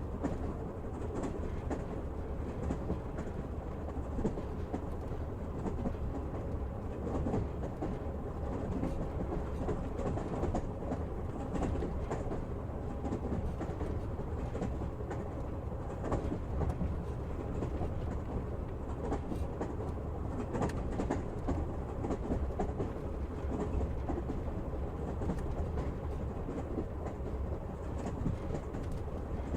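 Train running along the track, heard from inside the carriage: a steady low rumble with the wheels knocking over the rail joints.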